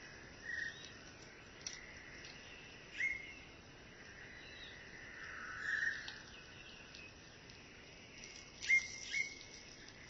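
Forest birds calling: a handful of short, separate calls, two of them close together near the end, over a faint steady high tone and background hiss.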